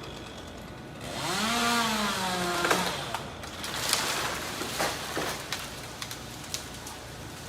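Chainsaw revving up and running for about a second and a half, then scattered sharp knocks and cracks of wood.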